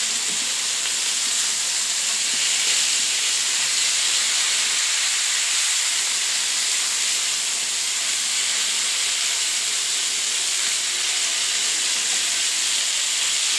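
Cabbage and leftover adobo stir-frying in a wok, a steady loud sizzle as the vegetables are tossed with a spatula.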